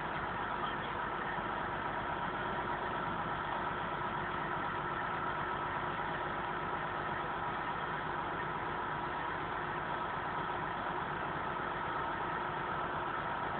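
Engine noise running steadily, with a constant high whine on top and no change in pitch or level.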